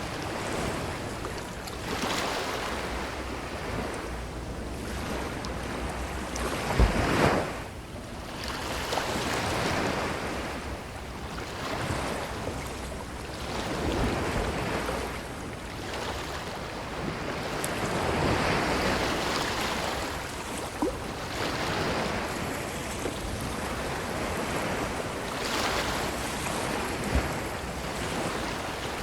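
Ocean waves washing onto a beach, the surf swelling and falling back every few seconds. The loudest surge comes about seven seconds in.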